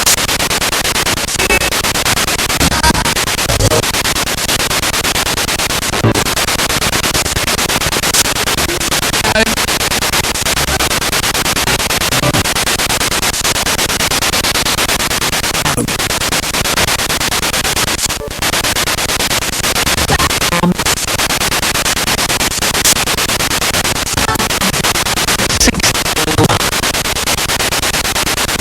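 Spirit box radio scanning rapidly through stations: a loud, steady hiss of static broken by brief snatches of pitched sound from passing broadcasts, with a few momentary cut-outs as it sweeps.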